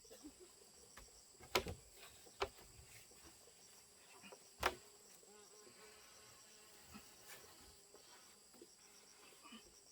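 Insects calling in a steady, faint, high-pitched drone, with three sharp knocks in the first half.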